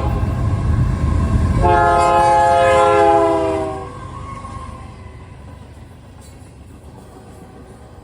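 Union Pacific freight locomotive's air horn sounding a multi-note chord in one long blast, about one and a half to four seconds in, just after the tail of an earlier blast. The train's heavy rumble under it fades away after the blast.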